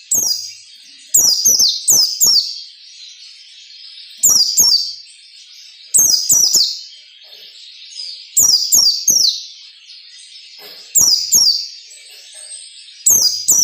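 Pleci (white-eye) singing in the fast 'ngalas nembak' style: clusters of two or three high, sharply falling whistled notes, repeating about every two seconds over a faint hiss.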